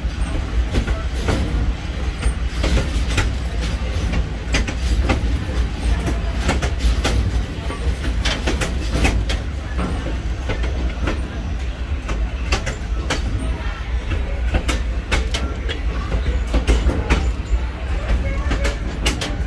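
Railroad car rolling along the track: a steady low rumble of the wheels on the rails, with frequent sharp clicks as the wheels pass over rail joints.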